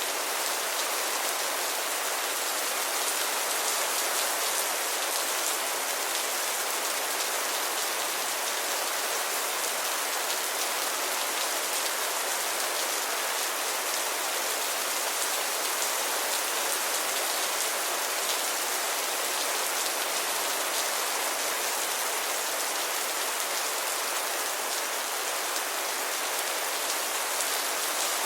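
Steady rain falling, a dense even hiss of many fine drop patters.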